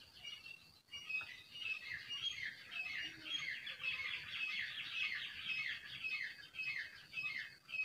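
Birds chirping: a dense chorus of short, downward-sliding chirps, several a second, fullest in the middle.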